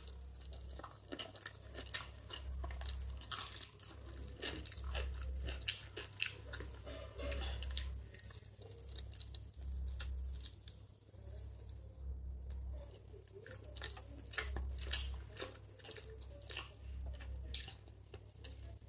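Close-up chewing and wet mouth sounds of a person eating chicken biryani rice by hand, with many short sharp smacks and clicks scattered throughout.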